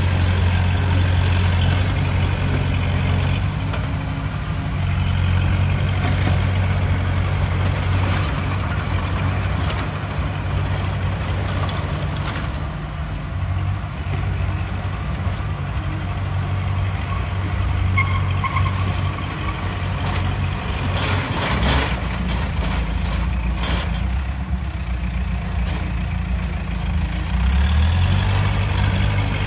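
Heavy diesel earthmoving machinery, a bulldozer and dump trucks, running with a strong low engine hum that dips and swells. There is a brief rush of noise about 21 seconds in, and the engine picks up near the end.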